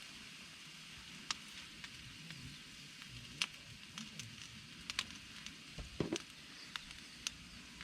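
Food sizzling and frying in a pan on a camping stove, a steady hiss with scattered pops and crackles, and one dull knock about six seconds in.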